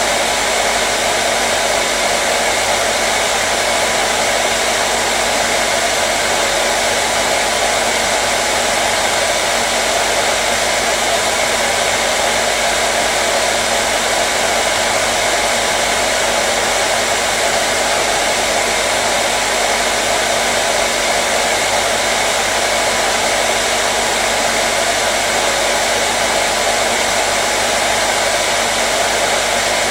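Hair dryer running steadily: an even, loud hiss of blowing air with a constant motor hum, unchanging throughout.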